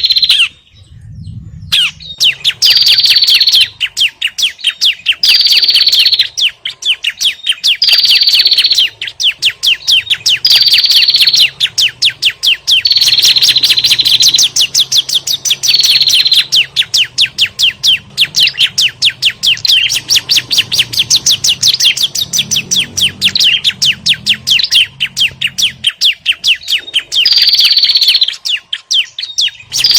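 Agitated 'ribut' alarm chatter of prenjak and ciblek (small prinias): a fast, unbroken run of sharp chips, broken every two to three seconds by a short falling note. This is a recording made to be played as a lure for small birds.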